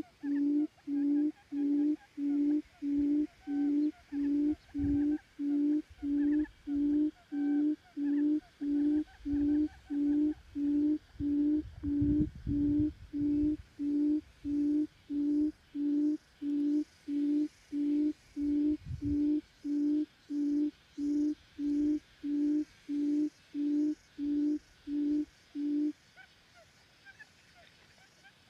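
A quail's low hooting call, one short note repeated very evenly about three times every two seconds, that stops shortly before the end.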